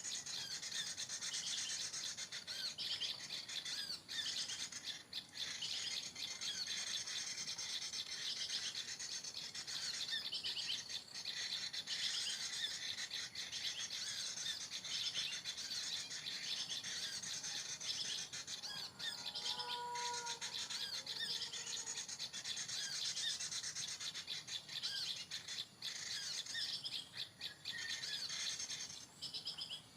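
Small birds chirping and twittering continuously in dense, high calls, with one short, lower whistled note about twenty seconds in.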